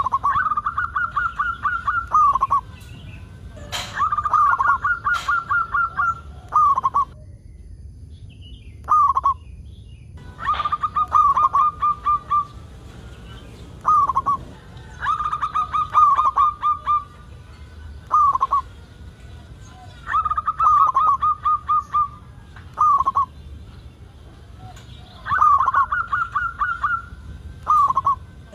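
Zebra dove (perkutut) singing: repeated cooing phrases, each a quick run of short notes lasting about two seconds, coming about every five seconds, with single short coos in between.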